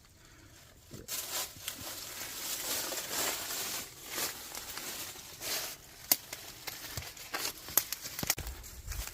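Rustling, crackling steps through dry leaf litter, starting about a second in and coming in uneven swells, with a couple of sharp snaps near the end.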